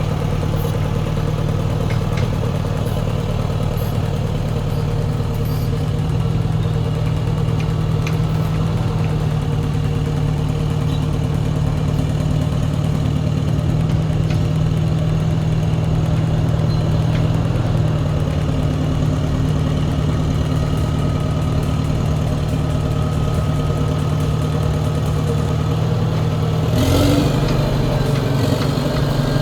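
Track loader engine running steadily, its pitch shifting a little now and then, with a brief louder noisy burst near the end.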